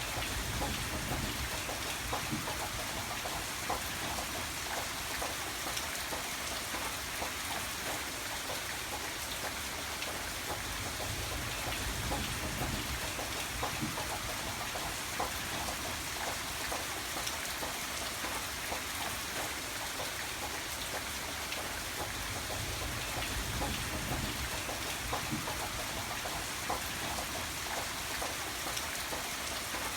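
Steady rain falling, with many distinct drops pattering on a surface and a low rumble that swells and fades a few times.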